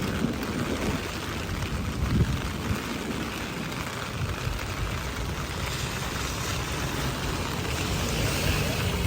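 Steady hiss of rain outdoors, with a low rumble of wind on the microphone. The hiss grows a little louder near the end.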